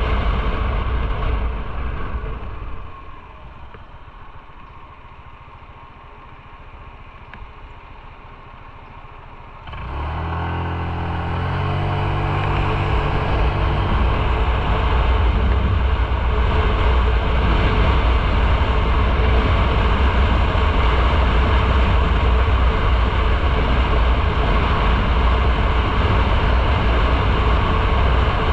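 Motorcycle ridden with wind noise on the microphone. It slows and sits idling quietly for several seconds, then pulls away about ten seconds in, its engine note climbing in pitch. After that it cruises with steady engine and wind noise.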